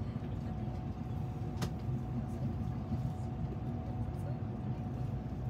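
Steady low hum of a Kodama shinkansen train standing at a station, with a faint steady whine over it and a single click about one and a half seconds in.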